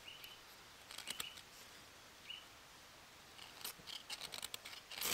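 Quick scraping strikes of a fire-starting steel throwing sparks onto a cramp ball fungus as tinder: a pair about a second in, then a rapid run of strikes near the end.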